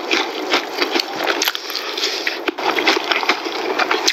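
Close-miked biting and chewing of a crispy fried-chicken Zinger wrap: a dense, continuous run of crunches and crackles.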